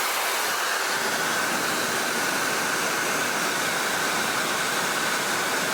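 Brand-new LetteQ blow dryer running steadily: a loud, even rush of air with a faint high whine.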